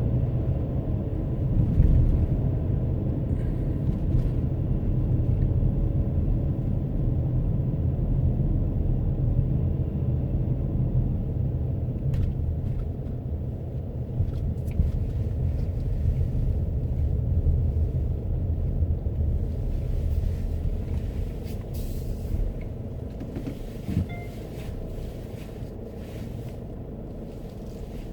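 Road and engine noise heard from inside a moving car: a steady low rumble that eases off over the last several seconds, with a few faint clicks.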